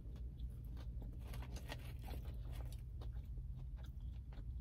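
Close-miked chewing of a sauce-dipped McDonald's Chicken McNugget, with many soft, irregular crunches and mouth clicks.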